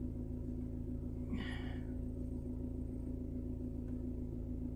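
A steady low hum with a constant tone, and a person's single short breath about a second and a half in.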